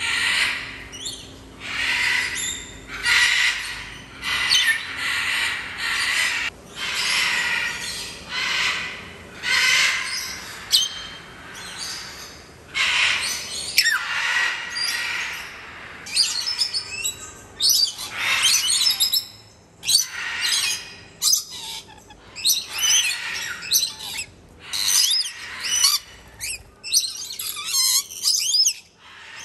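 Captive birds calling over and over, short high calls in quick succession, coming faster in the last third, where rainbow lorikeets are at the wire.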